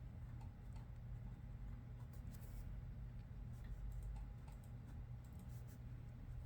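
Faint computer keyboard typing: scattered, irregular key clicks over a steady low hum.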